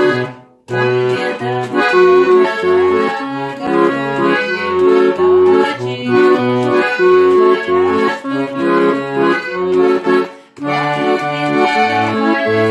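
An accordion playing a lively tune, with a bouncing alternation of bass notes and chords underneath. The music breaks off briefly about ten seconds in, then starts again.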